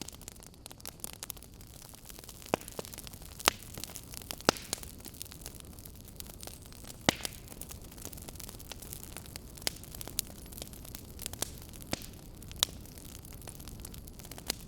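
Wood fire crackling in a fireplace: irregular sharp pops and snaps over a steady low hiss, with a few louder pops scattered through.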